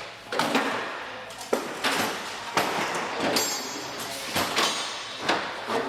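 Irregular knocking and clattering of scrap pipe, fittings and hardware being handled and tossed about in a service truck bed, with a short metallic clink about three and a half seconds in.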